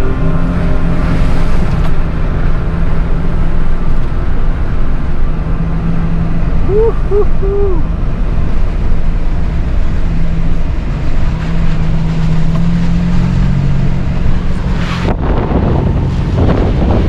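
Strong wind buffeting the microphone in a loud, rumbling roar, with a vehicle engine humming steadily underneath. Three short squeaky tones sound about seven seconds in.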